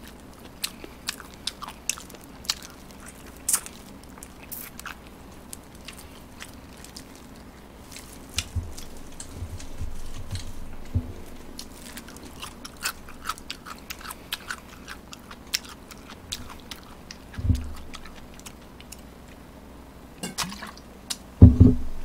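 A person chewing and biting fried chicken close to the microphone: scattered sharp crunches and wet mouth clicks, with a few dull low thumps.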